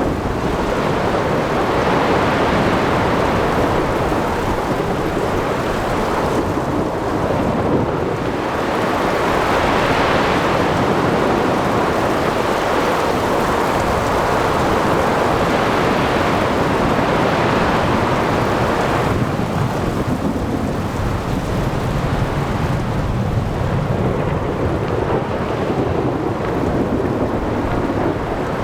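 Ocean thunderstorm: heavy rain and surf with rolling thunder, a steady dense roar that swells and eases slowly.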